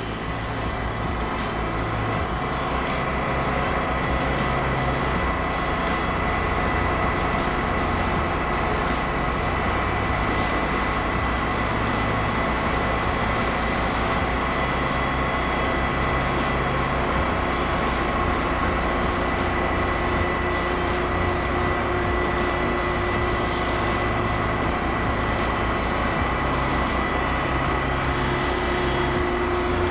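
TimberKing 2000 band sawmill running steadily under power, cutting a slab from a white willow log. It builds up over the first few seconds, then holds an even engine-and-blade drone with several steady whining tones.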